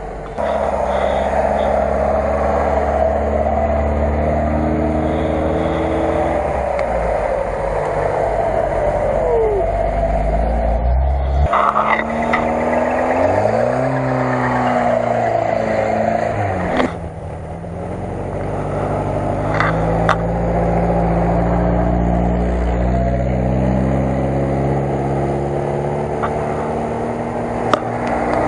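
Lada Niva four-cylinder engines working under load off-road, mostly held at steady revs, with a few quick rises and falls in revs in the middle and a sudden change in the engine sound about 17 seconds in.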